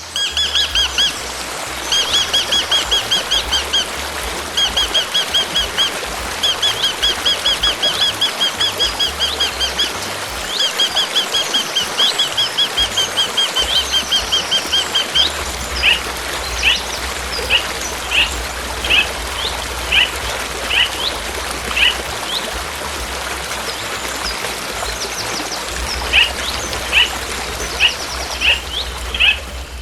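Songbird singing: rapid trilled phrases about a second long, repeated over and over, then about halfway through a run of single short falling chirps about once a second, over steady outdoor background noise.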